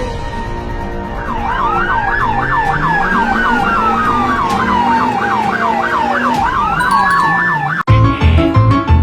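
Police siren yelping rapidly up and down, about three sweeps a second, with a slower wail rising and falling beneath it, over background music. It cuts off suddenly near the end and music with a steady beat carries on.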